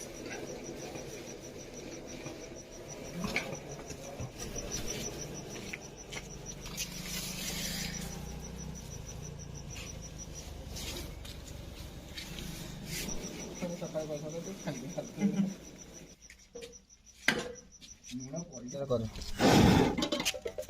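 An insect trilling in a rapid, even train of high pulses that stops about halfway through and comes back briefly, over faint background voices and a few scattered knocks, with a louder handling noise near the end.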